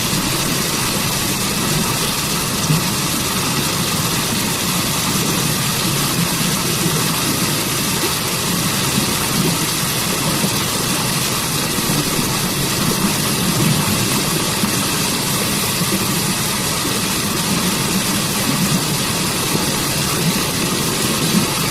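A waterfall and stream rushing steadily: an even, unbroken wash of falling and flowing water with a full low rumble and bright hiss.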